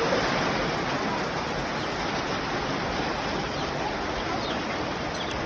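Steady rain falling, an even hiss, with a few faint bird chirps.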